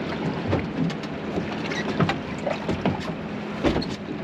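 Boat engine running with a steady low hum under wind and water noise, with a few short knocks and thumps scattered through.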